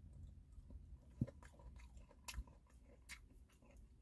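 A person chewing a piece of breaded fried popcorn chicken, faint, with a couple of sharper crunches about two and three seconds in.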